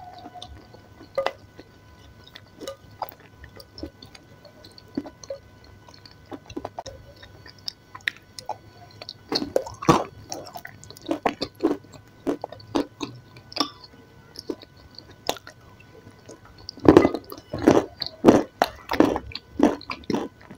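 Close-up chewing and crunching of powdery lumps of food. Scattered soft crunches come first, then crisp crunches come thicker from about halfway, loudest near the end.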